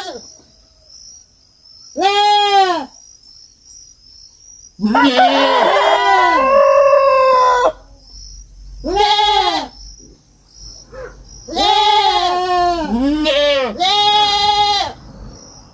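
Young goats bleating: loud wavering calls every few seconds, with two or more kids calling over one another in places.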